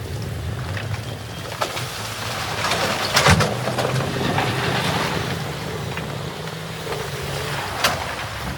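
Heavy machinery's diesel engine running steadily over rushing water, with a few sharp knocks, the loudest about three seconds in.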